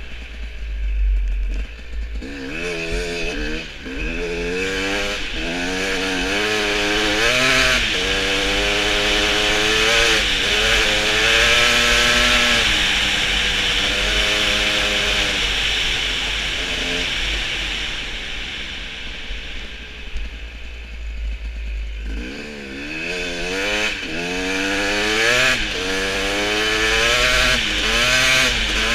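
Motorcycle engine pulling hard through the gears: the revs climb and drop back with each shift, hold fairly steady for a few seconds, ease off to a low rumble past the middle, then climb through several quick shifts again.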